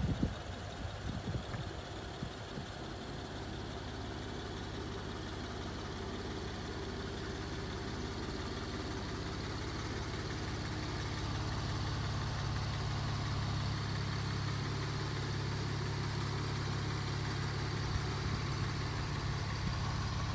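Porsche 911 Carrera S's naturally aspirated 3.8-litre flat-six idling steadily, growing louder about halfway through, with a few knocks in the first two seconds. The idle is even, with no excessive noise: a healthy engine.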